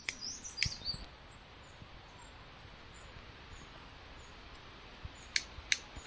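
Forest birds chirping: a few short, high chirps in the first second, then only a faint background hiss. Two sharp clicks come near the end.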